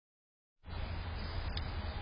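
Steady background noise with a strong low rumble, starting suddenly about half a second in, with one brief high chirp near the middle.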